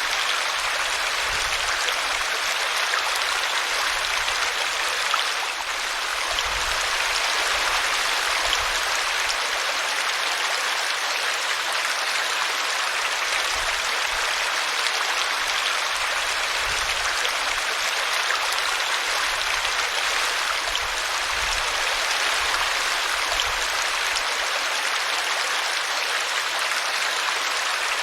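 Small stream flowing steadily, an even rush of running water.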